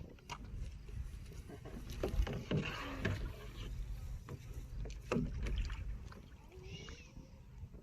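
Kayak being pushed off and paddled in shallow water: irregular paddle splashes and knocks against the hull.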